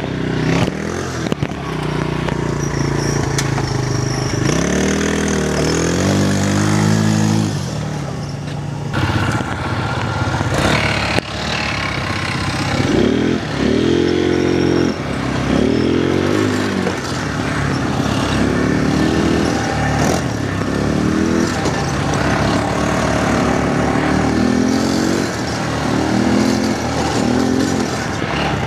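Quad bike (ATV) engine revving up and falling back in repeated surges as the rider tries to get the stuck ATV moving on the trail. A couple of sharp knocks are heard midway.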